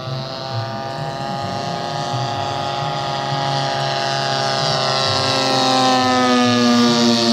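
Engine of a radio-controlled scale Cessna model airplane in flight, its pitch falling slowly while it grows steadily louder as it comes closer.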